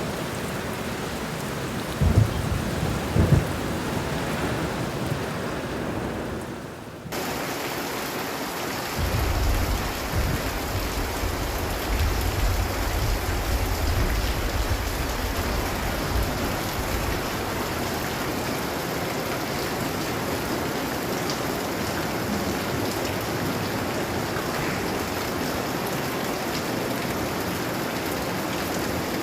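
Heavy rain falling steadily, with low thunder rumbles: two short ones about two and three seconds in, and a longer rolling one from about nine seconds in. The rain dips briefly and changes abruptly about seven seconds in.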